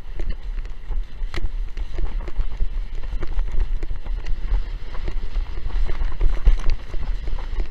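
Strong wind buffeting the microphone in a low, continuous rumble, with many short slaps and splashes of a windsurf board skimming over choppy water.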